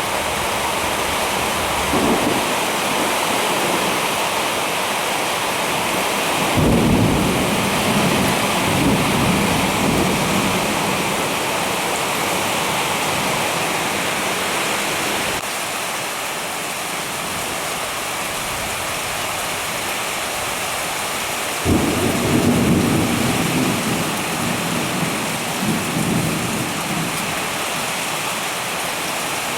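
Heavy rain falling steadily, with thunder. A sudden clap about a quarter of the way in rolls on for several seconds, and another sharp clap about two-thirds of the way in is followed by rumbling. Fainter rumbles come early and near the end.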